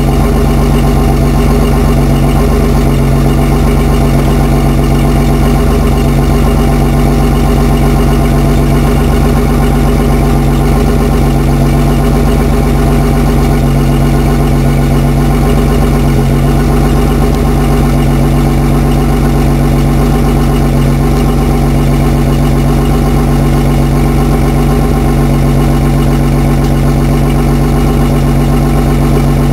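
1986 BMW 525e (E28) 2.7-litre straight-six idling steadily, its note unchanging.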